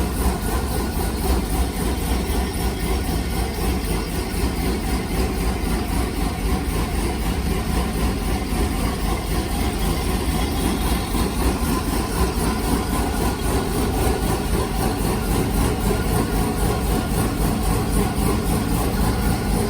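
Chevrolet LS3 6.2-litre V8 in a V8-swapped Corvair, idling steadily through its tuned exhaust.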